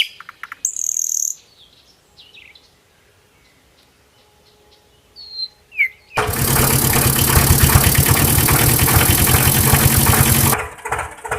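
Short bird-like chirps, then an engine running loudly and steadily with an even pulsing beat, starting suddenly about six seconds in and cutting off near the end.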